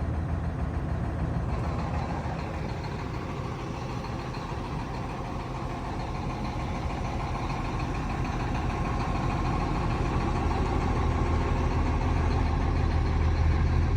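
Cummins M11 inline-six diesel in a 1998 Freightliner dump truck idling steadily. It dips a little a few seconds in, then grows gradually louder toward the end.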